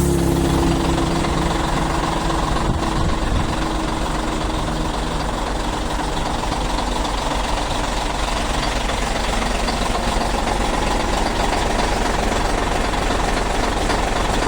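Scania truck's diesel engine running steadily. Its tone eases down slightly in the first few seconds, then settles into an even, rough drone.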